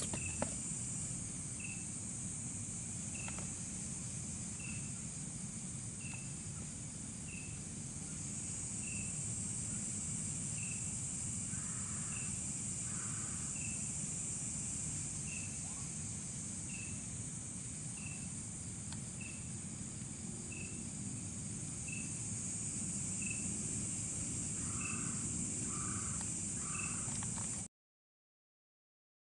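Outdoor chorus of crickets and other insects: a steady high-pitched trill, with one short chirp repeating about once a second and a few soft lower calls. The sound cuts off to total silence near the end.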